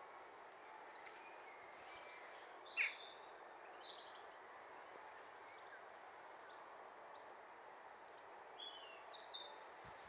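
Faint steady garden ambience with small birds chirping now and then: one sharp chirp about three seconds in, a few more just after, and a short run of calls near the end.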